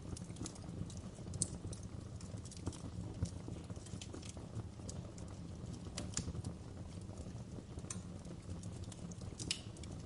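Campfire burning: irregular sharp crackles and pops of the wood, a few louder than the rest, over a steady low rumble.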